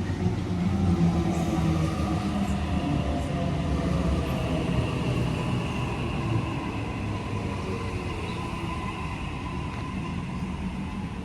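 Electric passenger train running along the platform, a low rumble with motor whine that glides in pitch, slowly fading as the train moves away.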